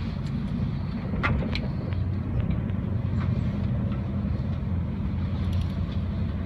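Steady low rumble of an ICE high-speed train running along the track, heard from inside the passenger car. A couple of short clicks come about a second in.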